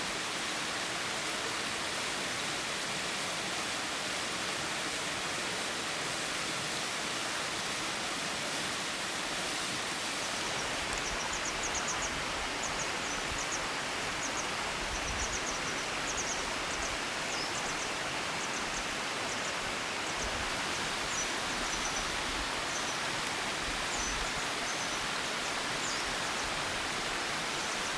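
A large waterfall's steady rush of falling water.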